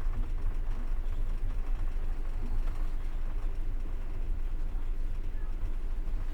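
Steady low rumble of a moving passenger train's wheels on the rails, heard from inside the carriage.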